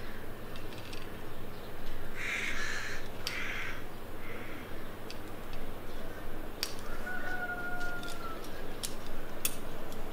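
A bird's harsh calls, two short ones about two to three seconds in, over a steady low rumble, with a few faint sharp clicks later on.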